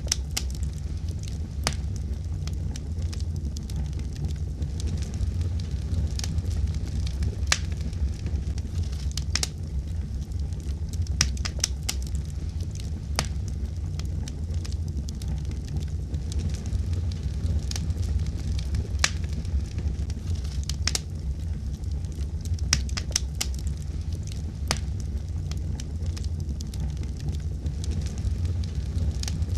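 Wood fire in a fireplace burning steadily: a low, even rumble of the flames with sharp, irregular crackles and pops from the burning logs.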